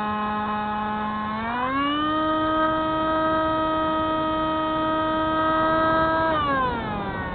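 Spyhawk FPV model plane's electric motor and propeller whining steadily. The whine rises in pitch about a second and a half in as the throttle is opened, holds, then drops back near the end as the throttle is eased off.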